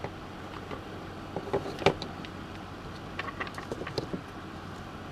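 Light scattered clicks and taps from small tools and a circuit board being handled on a workbench, over a steady faint background hum. The clicks come in two small clusters, a few in the second second and a few more after about three seconds.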